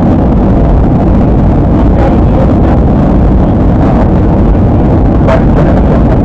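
Steady loud rumble of an airliner's cabin in flight: engine and rushing-air noise heard from inside the passenger cabin.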